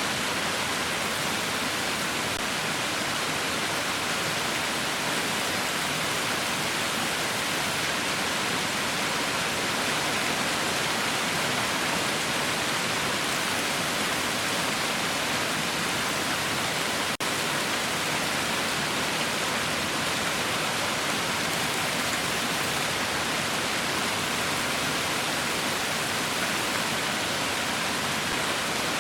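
Heavy rain falling in a steady, even hiss, with a split-second dip in level about two-thirds of the way through.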